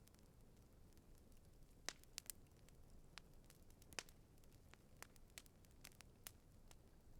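Campfire crackling faintly: scattered sharp pops and snaps of burning wood, irregular, with the loudest pops about two seconds and four seconds in.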